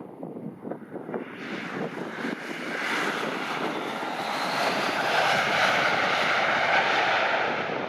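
Embraer regional jet of Fuji Dream Airlines passing close on its landing approach: jet engine noise builds from about a second in and peaks near the end. Strong gusty wind buffets the microphone.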